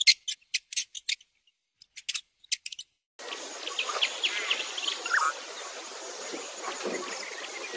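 A bird giving two quick runs of sharp, high chirps, about six notes then five. Just after three seconds a dense wetland chorus of insects and birds comes in, with a thin, steady high insect whine over scattered calls.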